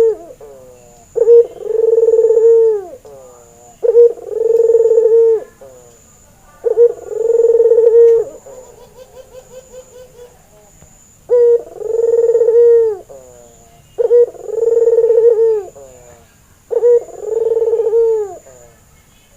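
Barbary dove (white ringneck dove) cooing: a short note followed by a long, drawn-out coo, repeated about every two and a half seconds, six times. About halfway through, the coos give way briefly to a soft rapid rattle of pulses.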